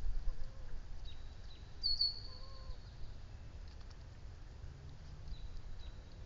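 Birds calling in a marsh: a thin, high whistled note about two seconds in, a few short high chirps around it, and faint soft rising-and-falling notes lower down, over a steady low background rumble.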